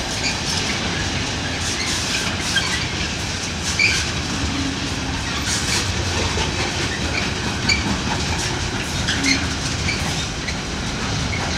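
Loaded container wagons of a long intermodal freight train rolling steadily past, the wheels making a continuous rolling noise with scattered short clicks and brief high squeaks.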